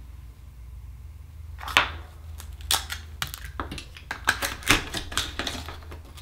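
A quick, irregular run of sharp clicks and taps of small hard objects, such as tools, oyster shells and pearls knocking on a tabletop and dish, starting about two seconds in, over a low steady hum.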